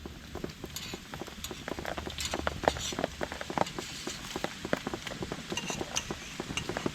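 Rain falling on a tarp: a dense, irregular tapping of drops over a soft hiss of rain.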